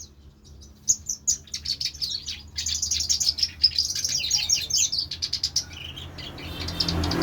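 Pet songbird chirping in quick runs of short high notes, starting about a second in and thinning out near the end, over a faint low steady hum.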